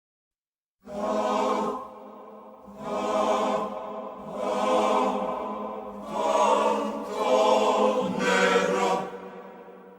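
Choral singing in slow, held phrases that swell and fade, starting about a second in.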